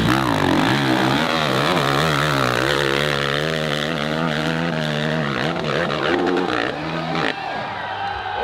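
Dirt bike engine revving hard under load, its note wavering quickly up and down, then easing off after about five seconds.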